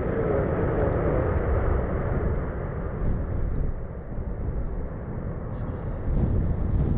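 Jet aircraft passing, its engine whine dropping slowly in pitch over the first couple of seconds above a steady low rumble.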